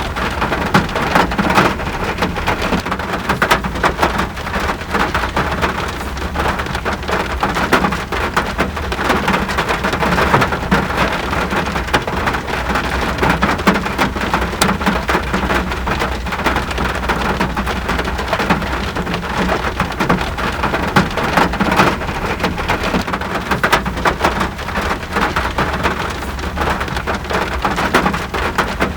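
Steady rain falling, a dense even hiss with many individual drops ticking sharply on a surface.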